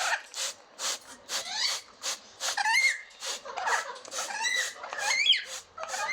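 Pet parrot calling in a rapid run of short, harsh squawks and chirps, about two or three a second, some of them rising in pitch.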